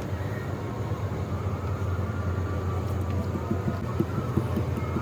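A steady, low machine hum, like an engine or motor running, with light knocks and taps in the second half.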